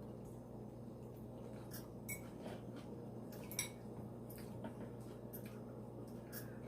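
Cutlery clinking lightly against a plate: a handful of faint, separate clicks over a steady low hum.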